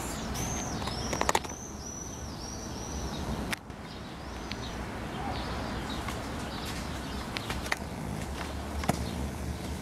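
A small bird chirping a quick run of short, high, arching notes over the first three seconds, with a few sharp clicks among them, then only steady outdoor background noise with faint ticks.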